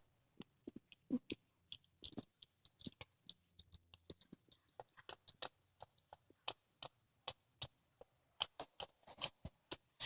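A cat chewing and crunching on a squirrel carcass: many irregular, quick crunches and clicks of teeth biting through it.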